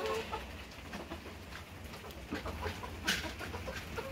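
Domestic hens clucking softly in short, quiet calls, with scattered small ticks and one sharp click about three seconds in.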